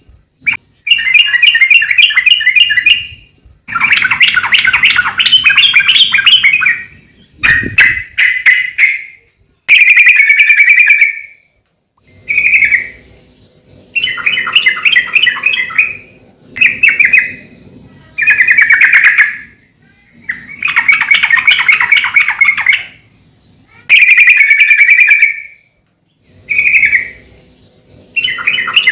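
Yellow-vented bulbul singing loudly: a run of short bubbling, chattering song phrases, each one to three seconds long, repeated with brief pauses between. A brief low thump comes about seven seconds in.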